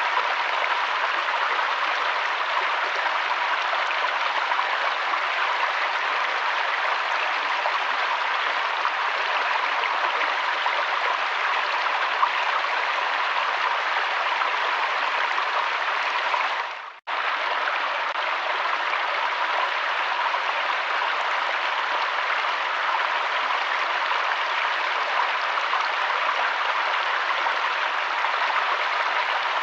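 Steady rush of flowing river water. A little over halfway through, the sound drops out for a split second and comes straight back.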